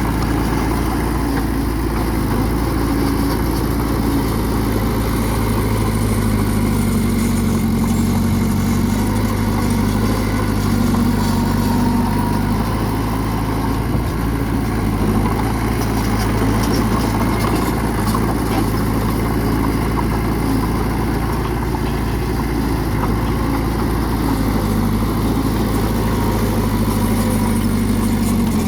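Bulldozer's heavy diesel engine running steadily, its pitch shifting a little as it works.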